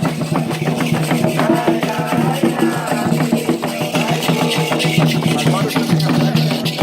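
Candomblé ritual music: drums and rattles beating a fast, steady rhythm, with voices singing over it.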